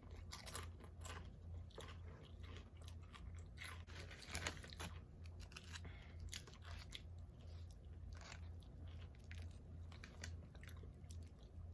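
A person chewing crunchy chips, close to the microphone: a run of crisp crunches, the loudest about four and a half seconds in.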